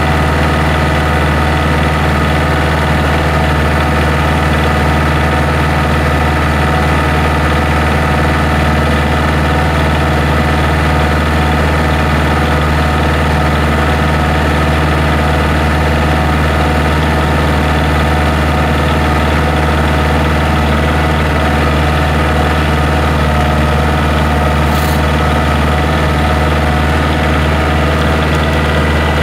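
Kioti DK40 tractor's diesel engine running at a steady speed while towing a truck.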